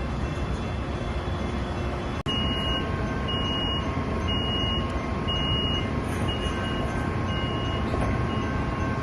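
Steady rumble of a train, with a high electronic warning tone starting about two seconds in and repeating about once a second, each beep about half a second long.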